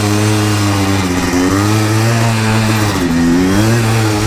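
Yamaha Blaster 200's two-stroke single-cylinder engine running under way, loud and steady, its pitch dipping and picking up again about a second in and about three seconds in as the revs fall and rise with the clutch.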